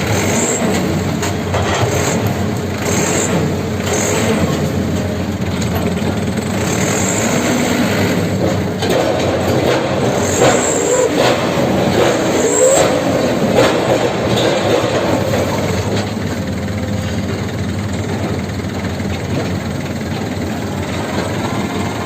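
Komatsu PC200 excavator working: its diesel engine running steadily while the steel tracks and linkage clank and squeal, with short high squeals repeating in the first half and several sharp clanks about halfway through.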